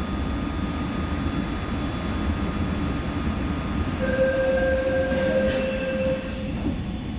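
Seoul Subway Line 4 electric train running on the track with a steady rumble. About four seconds in, a steady-pitched wheel squeal is held for about two seconds.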